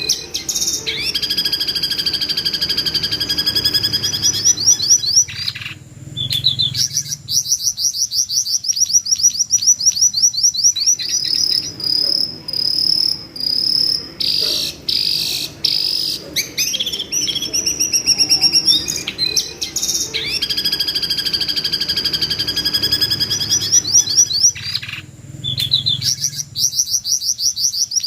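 Jongkangan bird giving shrill, screaming calls: long bouts of very rapid, buzzy trills, high-pitched, that break off and start again.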